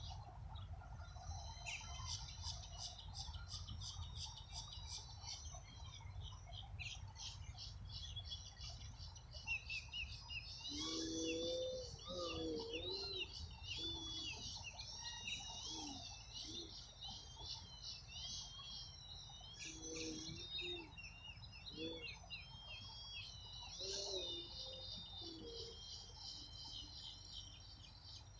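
Many small birds chirping and singing in overlapping calls. Lower, bending calls break in about a third of the way in and again near the end, over a faint low rumble.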